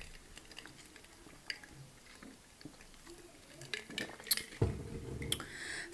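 Quiet table sounds: a few light clicks and knocks from dishes and food being handled during a meal, more of them near the end.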